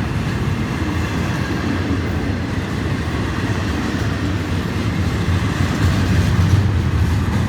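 Florida East Coast Railway freight train of container and trailer cars rolling past: a steady rumble of wheels on the rails that grows a little louder near the end.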